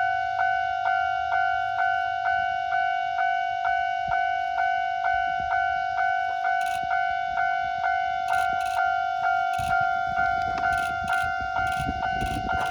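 Japanese level-crossing warning bell ringing about twice a second with an even, repeating electronic ding. The low rumble of the approaching diesel railcars grows from about three-quarters of the way in.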